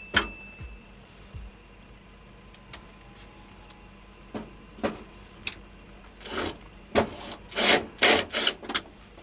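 A series of short rubbing and scraping noises, as of hard objects being handled and shifted. They are sparse at first and come quickly one after another in the second half.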